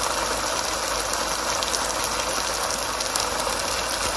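Thick curry masala of onion, yogurt and tomato purée sizzling steadily as it fries in oil in a pan, at the stage where it has reduced and the oil is separating out.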